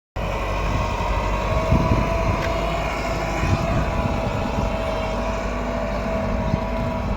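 Massey Ferguson 375 tractor's diesel engine running steadily under load while pulling a disc harrow, a low rumble with a steady whine over it.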